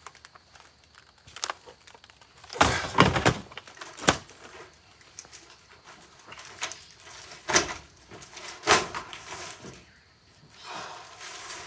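Heavy materials being moved and set down by hand: a long clattering bang about two and a half seconds in, followed by three sharp single knocks spread through the rest, with quieter scraping and handling noise between them.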